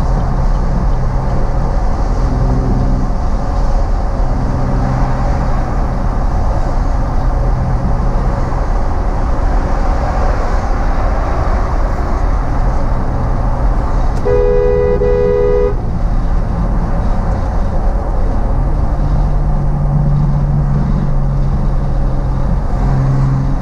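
A car being driven, with a steady engine and road drone whose pitch rises and falls. About two-thirds of the way in, a car horn sounds once and is held for about a second and a half.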